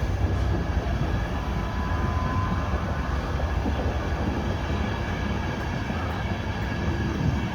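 Passenger train coaches rolling past at the platform: a steady low rumble of wheels on rail, with a faint thin whine about a second to three seconds in.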